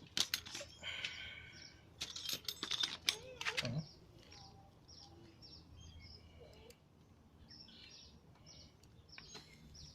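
Small birds chirping repeatedly in the background, with a series of sharp clicks and knocks in the first four seconds.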